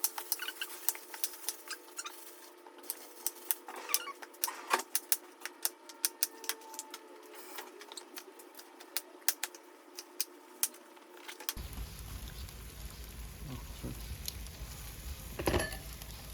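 Rapid, irregular sharp clicks and taps for most of the stretch. After a cut they give way to a steady low rumble, with a brief rustle near the end.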